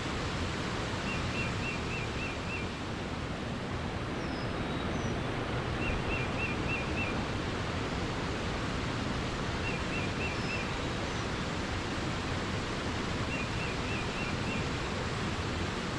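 Steady rush of running water, with a small bird singing a short phrase of about five quick notes four times and a few faint higher chirps.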